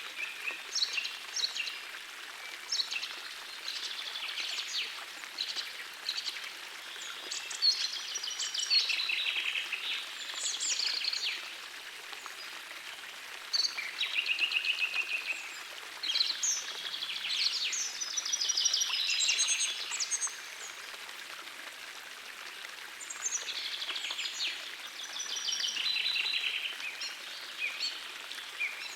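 Songbirds singing in repeated phrases of rapid trills and chirps, with short pauses between phrases, over the faint steady rush of a gentle forest stream.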